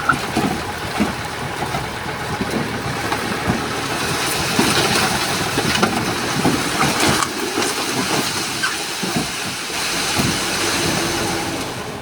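Heavy earthmoving work: a loud, continuous rushing and rumbling noise full of irregular clanks and clatters, with no clear engine tone.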